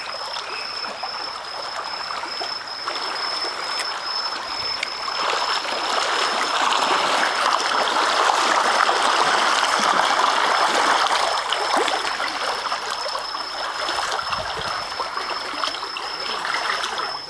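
Fast-flowing floodwater rushing over a flooded road during torrential typhoon rain, swelling louder for several seconds in the middle.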